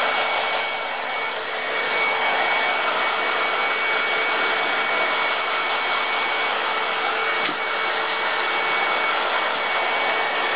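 Handheld hair dryer running steadily: an even whoosh of blown air with a faint motor whine.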